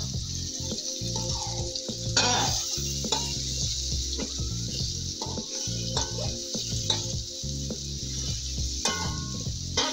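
Fish pieces frying in spiced tomato-onion masala in a steel pan, sizzling steadily, while a metal spatula stirs and scrapes, knocking against the pan now and then.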